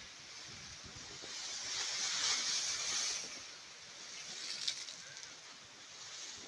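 Sea wave washing in: a hissing rush that swells and fades over about two seconds, over a steady background hiss. A single sharp click comes about three quarters of the way through.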